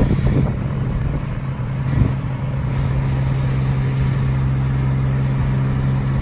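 A bucket truck's engine runs steadily, powering the hydraulics while the boom rotates, with one short knock about two seconds in. The boom's rotation itself is smooth, with no noise from it standing out over the engine.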